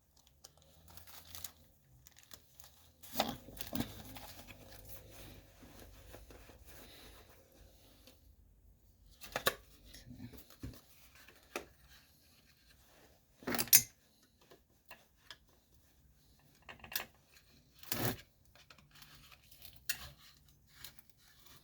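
Small metal engine parts and hand tools handled on a workbench: scattered clicks, clinks and knocks, the loudest about 14 seconds in, with a stretch of faint steady noise from about 3 to 8 seconds in.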